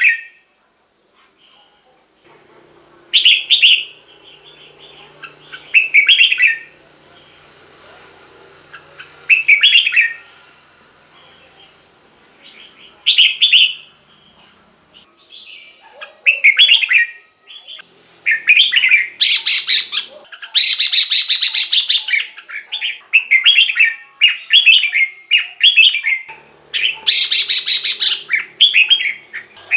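Red-whiskered bulbul singing: short, bright whistled phrases every few seconds, then a rapid, near-continuous run of phrases in the second half, with two louder, harsher stretches.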